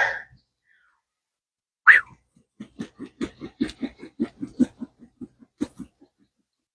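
A rubber resistance band whipped through the air with a windy whoosh, twice, the second about two seconds in. A woman then laughs in a run of short, quick giggles that fade out.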